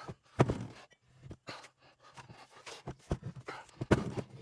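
Irregular clicks and knocks of metal transfer-case parts being worked loose and handled, the loudest about half a second in.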